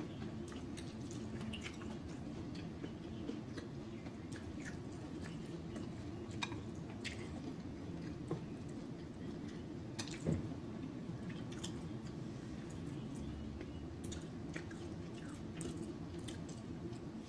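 A person chewing shrimp coated in butter sauce, with wet squishing and smacking mouth sounds and many small irregular clicks. One louder smack comes about ten seconds in.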